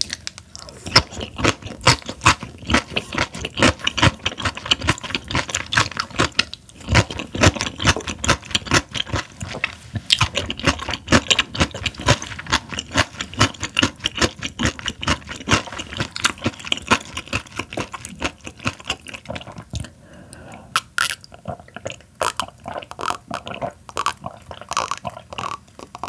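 Close-up chewing of raw Chinese herring, a dense run of quick mouth clicks several a second, thinning out with a few sharper clicks about twenty seconds in.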